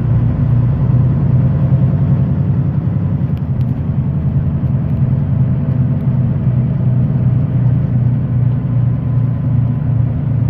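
Semi-truck's diesel engine running steadily on the road, a low, even hum that holds one pitch.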